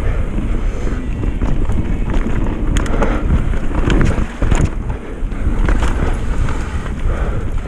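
Wind buffeting the microphone and mountain bike tyres rolling over a wet, leafy dirt trail on a downhill run. Scattered sharp knocks and rattles from the bike over bumps run throughout.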